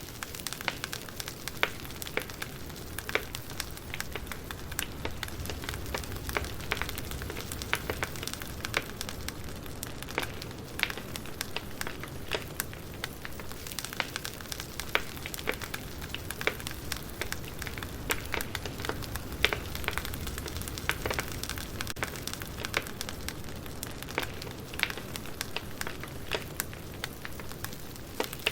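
Wood fire crackling: a steady hiss with irregular sharp pops and snaps, a few of them louder.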